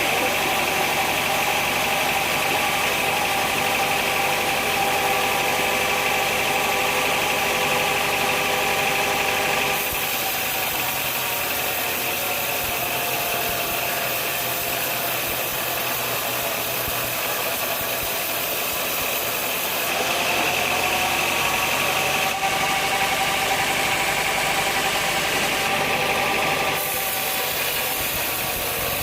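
Sawmill machinery running steadily with a constant mechanical hum. The sound shifts abruptly twice, about a third and two-thirds of the way in.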